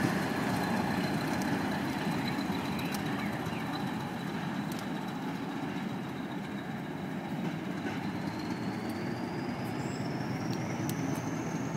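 Hastings diesel-electric multiple unit pulling away and receding, its rumble fading gradually.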